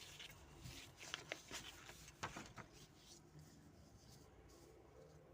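Near silence with a few faint scratching strokes and light taps of a pen on paper, about one to three seconds in.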